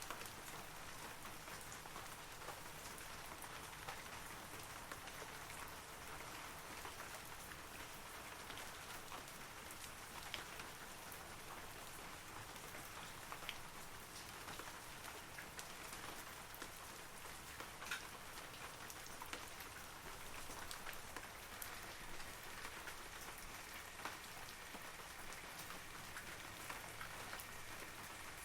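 Steady rain falling on forest trees, an even patter with scattered individual drops standing out, a few a little louder.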